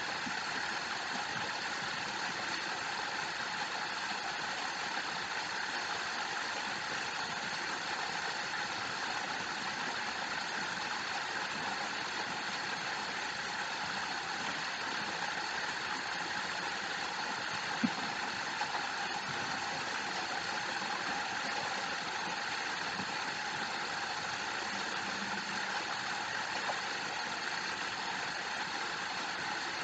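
Steady rush of falling water from a waterfall, even and unbroken, with one small click about eighteen seconds in.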